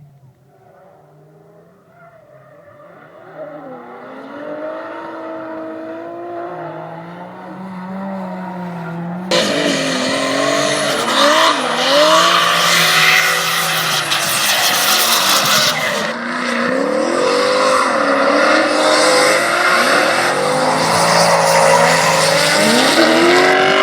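A drift car approaching, its engine revving up and down and growing steadily louder. About nine seconds in, loud tyre squeal sets in as the car slides sideways past, with the engine still revving over it.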